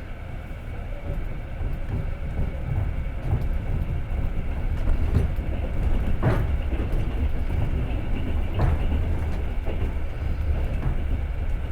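Passenger train running along the rails, heard from inside the carriage: a steady low rumble that swells over the first couple of seconds, with a few sharp knocks of the wheels over rail joints, the loudest about halfway through.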